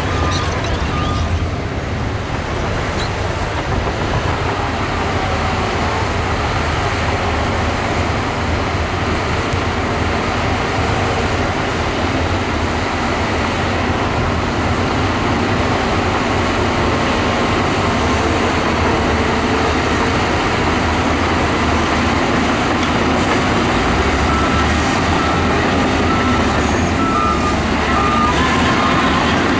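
Heavy earth-moving machinery (bulldozer and dump trucks) running steadily, a continuous low diesel engine rumble. Near the end a reversing alarm beeps in short repeated pulses.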